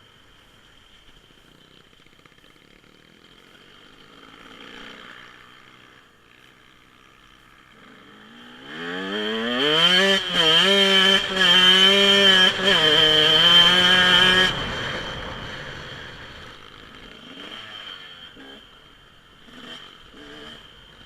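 Dirt bike engine revving up through several gears as it rides past, loud for about six seconds in the middle, then fading away.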